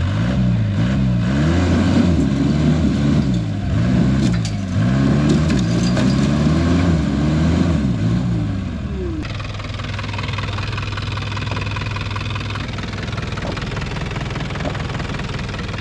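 Off-road rock crawler's engine revving up and down again and again under load as it climbs. About nine seconds in it cuts to a steady engine idle.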